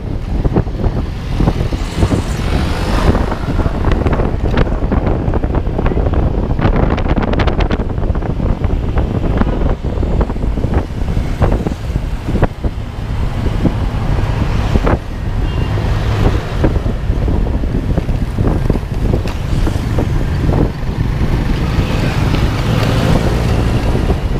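Wind buffeting the microphone over the steady low rumble of a moving vehicle, with scattered small knocks and clicks.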